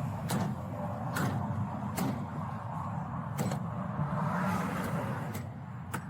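A vehicle engine idling with a steady low hum, with about half a dozen irregular sharp metallic clicks and knocks from tools working at a padlock.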